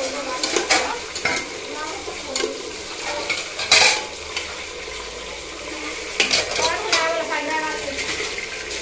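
Cubed potatoes sizzling as they fry in oil in an aluminium pressure cooker, with a metal spatula scraping and knocking against the pot as they are stirred. The loudest scrape comes a little under four seconds in.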